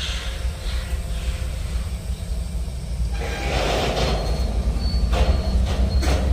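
Freight cars of a slow-rolling CSX manifest train passing: a steady low rumble of wheels on rail that grows louder about halfway through, with a few sharp clanks near the end.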